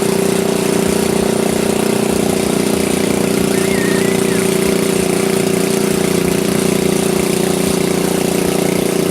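Tractor engine running loudly at a steady speed, its pitch and level holding constant without revving up or down.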